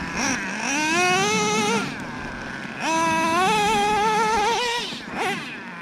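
Traxxas Revo 3.3 nitro RC monster truck's OS 21TM two-stroke glow engine revving in two long throttle bursts, its high whine rising and holding, then dropping back toward idle between them, with a short blip near the end.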